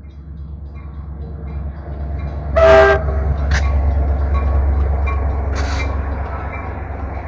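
Metra commuter train rumbling past, the sound building steadily, with a short loud horn blast about two and a half seconds in and a couple of brief sharp hisses after it.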